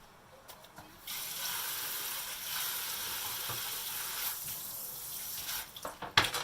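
Kitchen tap turned on, running for about four and a half seconds and shut off, followed by a few quick knocks and one sharp clack near the end.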